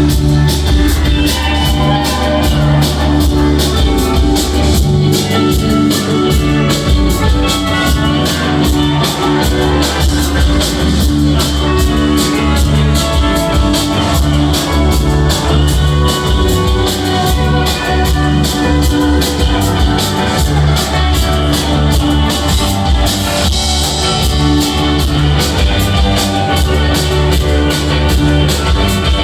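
Rock band playing a live jam: a drum kit keeps a steady beat under bass and electric guitars, loud and unbroken.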